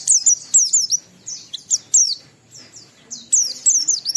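White-eye (pleci) singing: quick phrases of high, rapidly falling twittering notes, four or five phrases with short pauses between them.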